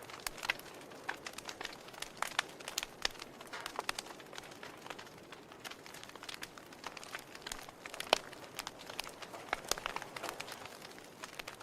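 Wood fire in a fireplace crackling: irregular sharp pops and snaps from the burning logs over a soft steady hiss, with one louder pop about eight seconds in.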